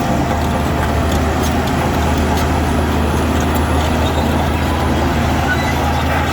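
Diesel engine of heavy earthmoving machinery running steadily at an even speed, with a low hum.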